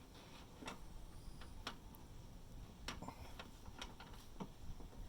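Faint, irregular light metallic clicks, about one a second, as a flare nut on a copper refrigerant pipe is turned by hand onto the air conditioner outdoor unit's service valve.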